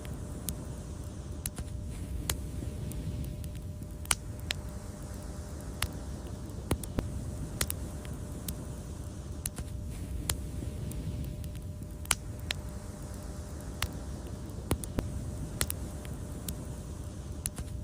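Wood fire crackling: sharp, irregular pops and snaps over a steady low rumble of the burning fire.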